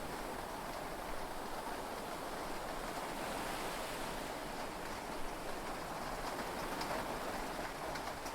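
Steady heavy rain heard from inside a yacht's cabin, an even rushing hiss with a few sharper drop ticks in the second half.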